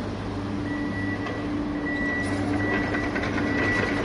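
A small motor running with a steady hum and a high whine that starts about a second in and comes and goes.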